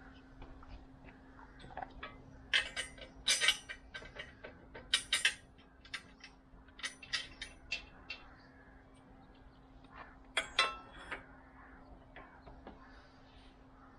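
Steel tools and metal parts being handled, with irregular sharp clinks and knocks, some ringing briefly, in clusters over several seconds. A faint steady hum runs underneath.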